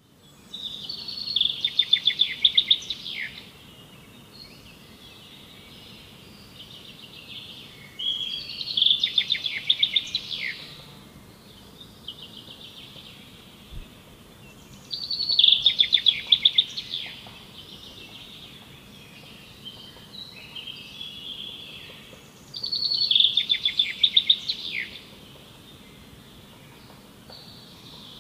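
Songbird singing: a loud, rapid trilled phrase lasting about two and a half seconds, repeated four times roughly seven seconds apart, with softer chirping between the phrases over a faint steady background hiss.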